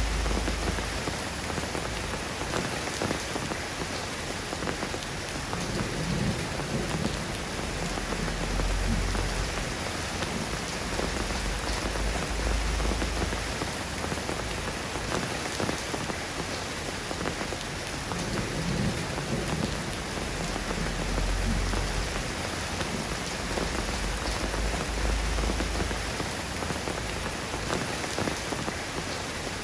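Steady rain falling and pattering on surfaces, with a deep low rumble swelling and fading several times.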